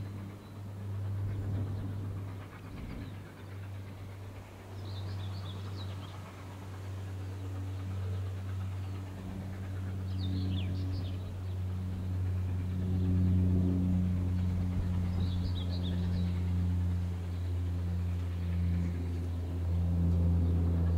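Steady low hum of an approaching steam-hauled passenger train, growing gradually louder. Brief bird chirps break in about every five seconds.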